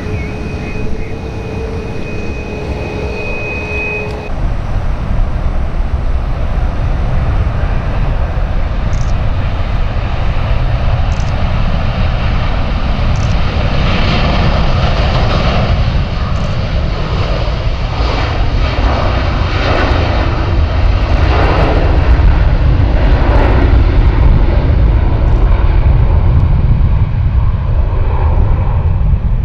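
Airbus A330-200's Rolls-Royce Trent 700 turbofans at takeoff power: a loud jet roar that steps up about four seconds in and swells into a rough, pulsing roar over the second half.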